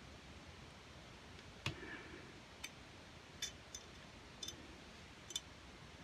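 Faint, irregular small clicks, about six of them, of a tool working the trigger guard screw on a stainless derringer frame during reassembly; the loudest comes about a second and a half in.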